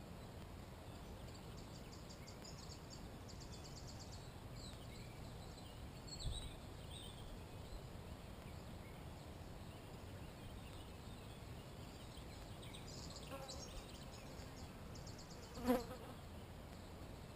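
Faint outdoor morning sounds of small birds and insects. A high, rapid, even trill comes twice, first early and again near the end, along with a few thin chirps. There is a soft low thump about six seconds in and a short, louder call near the end.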